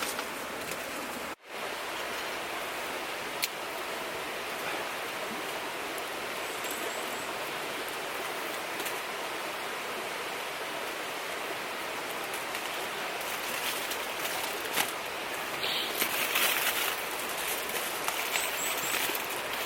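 River water flowing steadily, a continuous rushing, with a few sharp clicks and a patch of denser crackling about 16 seconds in.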